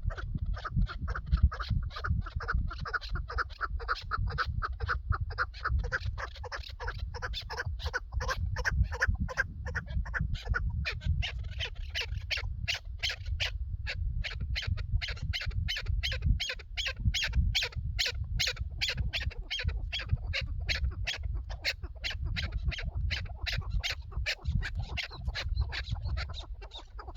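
Chukar partridge calling: a long, unbroken run of short, rapidly repeated notes, several a second, over a low rumble.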